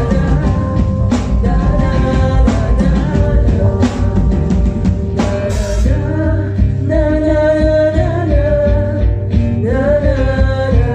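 A song performed live: a singer's voice over a rock band with drums and guitar, with drum hits at a steady beat and long held sung notes in the second half.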